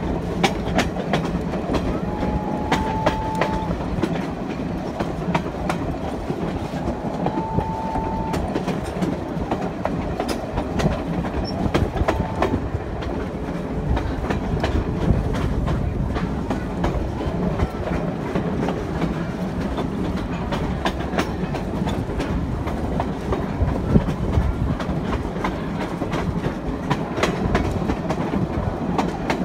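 Steam-hauled passenger train heard from on board: the coach rumbles steadily along the track, with the wheels clicking over rail joints. A few short high-pitched tones come in the first dozen seconds.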